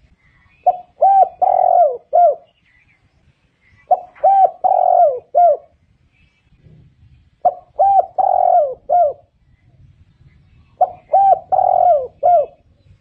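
Spotted dove cooing: four repeated song phrases, each a quick run of short coos with one longer coo and a final short falling note, coming about every three seconds.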